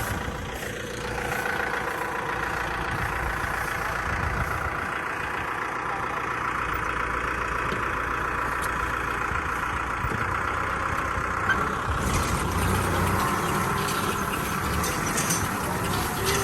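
Kubota M6040 tractor's diesel engine running steadily at idle.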